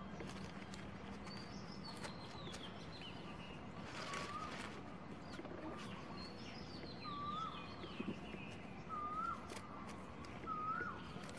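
Birds calling outdoors: a short hooked call near the same pitch repeats four or five times in the second half, over higher slurred chirps. Faint scattered clicks come through as well.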